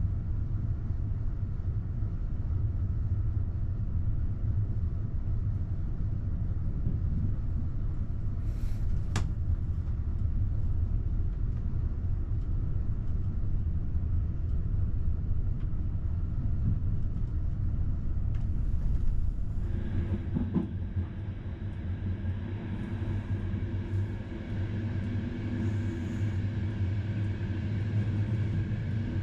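Steady low rumble of a passenger train running at speed, heard inside the carriage, with a single sharp click about nine seconds in. About twenty seconds in, a set of steady higher tones joins the rumble.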